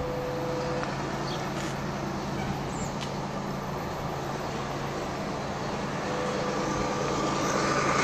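A train approaching from a distance: a steady low rumble and hum that slowly grows louder toward the end.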